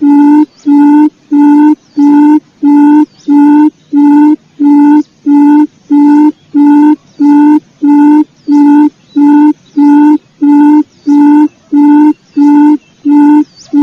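Recorded quail lure call played back loud: a steady run of short, low notes of one unchanging pitch, evenly repeated nearly twice a second, cutting off suddenly at the very end.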